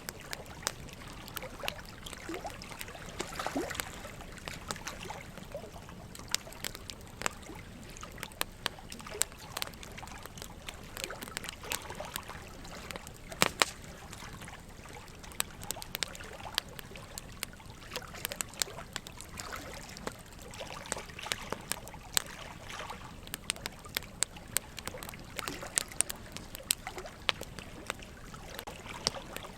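Wood fire crackling, with frequent irregular sharp pops over a steady trickle of running water; one louder pop about halfway through.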